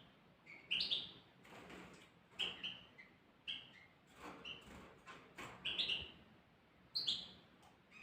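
Small birds chirping: a dozen or so short, sharp calls at irregular intervals, some dropping quickly in pitch.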